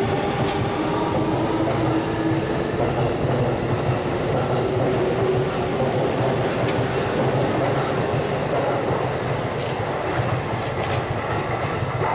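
Electric train running along the tracks: a steady rumble of wheels on rail with a faint, even motor hum.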